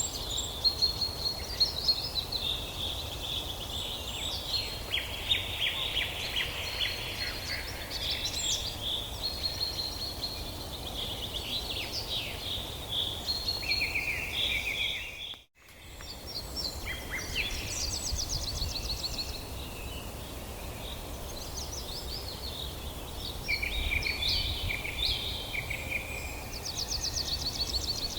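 Many birds singing and calling at once: a dense chorus of chirps, whistles and quick trills over a steady low rumble. The sound cuts out for a moment about halfway through, then fades back in.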